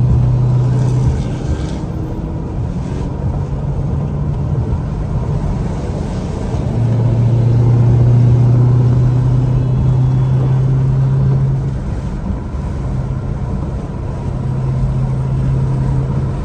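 Dodge Hellcat's supercharged HEMI V8 cruising, heard from inside the car as a steady low drone. It grows louder for a few seconds in the middle, then eases back.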